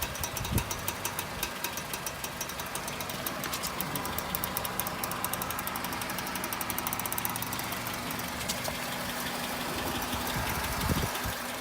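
Rapid, regular clicking from a worn CV joint on a 2002 Honda CR-V's front drive axle, heard while turning right, over the engine's steady running.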